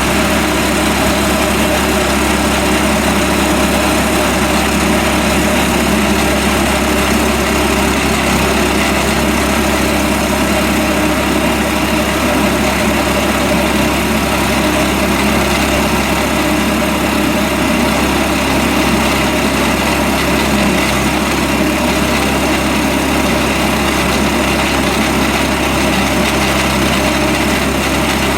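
An engine running steadily at a constant speed, a loud continuous drone with no change in pitch or level.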